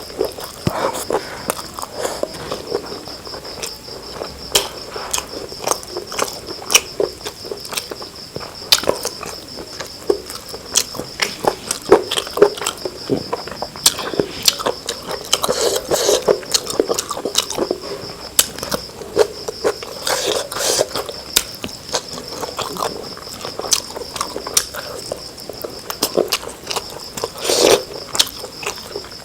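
Close-up eating sounds: chewing and wet mouth smacks with frequent sharp clicks, as rice and curry are eaten. A steady high-pitched pulsing trill runs underneath throughout.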